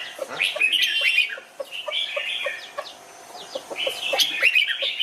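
Red-whiskered bulbuls singing: three bursts of quick chirping phrases, one near the start, one about two seconds in and one near the end, over a light, regular ticking about four times a second.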